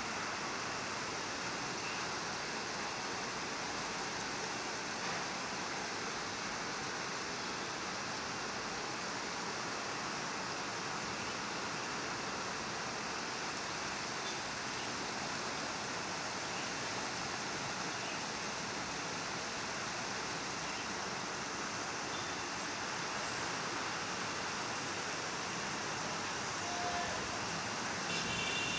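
Steady, heavy rain falling in an even hiss that keeps up without a break.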